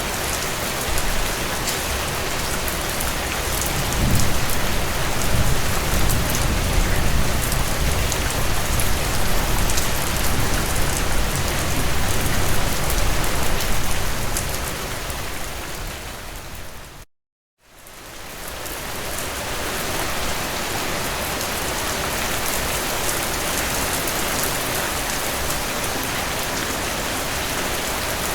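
Heavy rain falling on a tin roof as a steady hiss, with a long low thunder rumble from about four seconds in until about fourteen seconds in. Just past halfway the sound fades out to a moment of silence and fades back in, like an edit joining two recordings.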